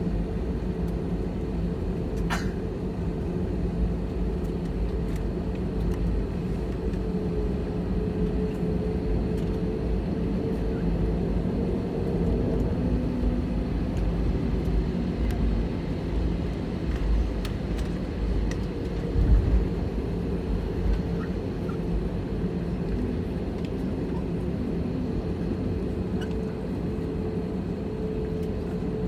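Steady cabin noise of an Airbus A320 at low power: a constant hum from the engines and air system over a low rumble, with a few faint clicks and a single thump about 19 seconds in.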